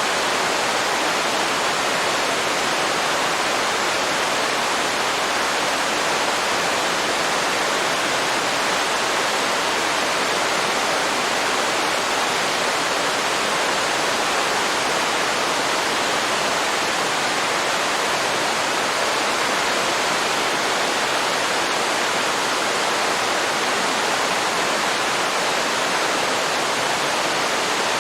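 Waterfall pouring steadily into a river: a dense, even rush of falling water.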